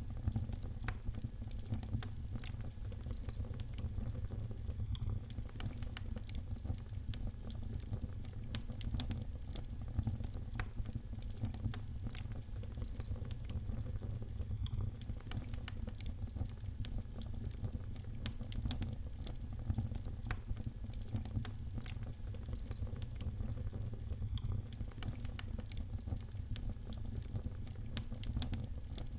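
Wood fire crackling in a fireplace: a continuous irregular stream of sharp pops and snaps over a steady low rumble.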